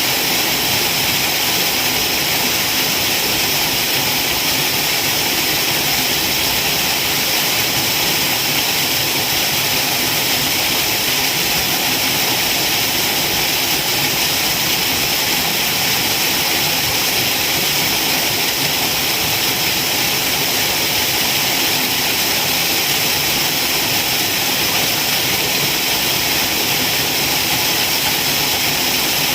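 Waterfall: a loud, steady rush of falling water, hissy and unbroken.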